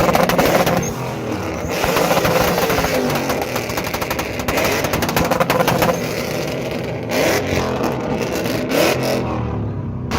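A car engine revving hard in repeated bursts, with a rapid crackle of exhaust pops through each rev.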